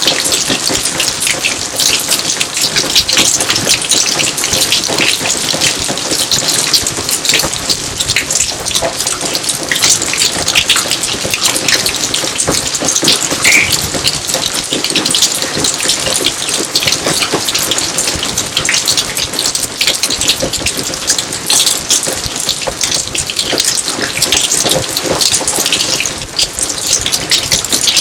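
Steady rain falling, with many individual drops striking close by over a constant hiss.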